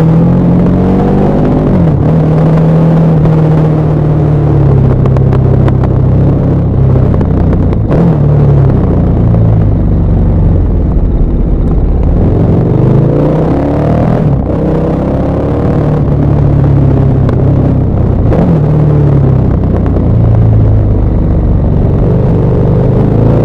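KTM 1190 Adventure R's LC8 V-twin engine and exhaust on a downhill ride, its pitch rising and falling repeatedly as the rider opens and closes the throttle, with several sudden drops in pitch.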